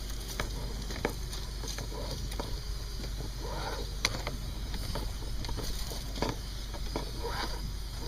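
Clothes dryer running just after being started: a steady low hum with a faint airy hiss and scattered light clicks.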